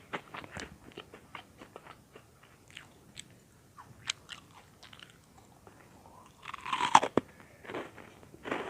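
Close-miked chewing of crunchy butter-toasted bread-cube popcorn: a quick run of crisp crunches that thins out, then a loud crunchy bite about seven seconds in, followed by a few more crunches.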